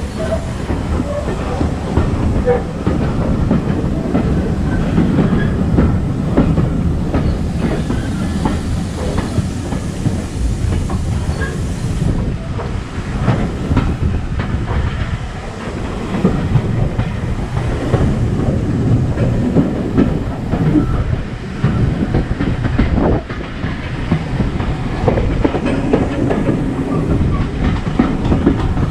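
Railway carriage running along the track with a steady low rumble and the clickety-clack of its wheels over the rail joints.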